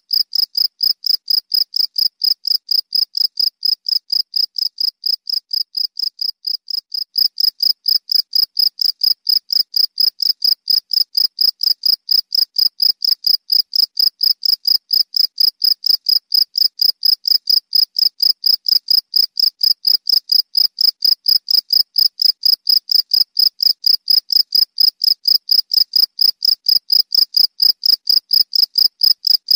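Cricket chirping steadily: one high-pitched, evenly repeated chirp at about four a second.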